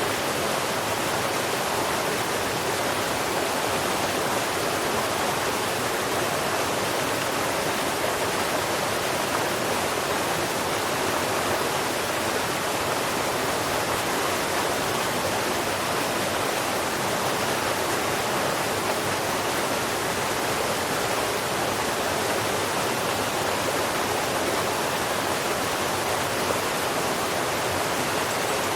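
Steady, even rushing noise that runs unchanged, with no bird calls in it.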